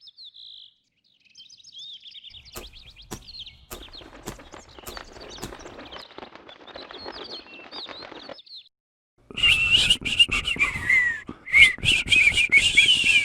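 Birds chirping softly; about nine seconds in, a much louder bird chorus takes up a whistled tune in quick, wavering notes: the birds singing the bird-feeding song they learned.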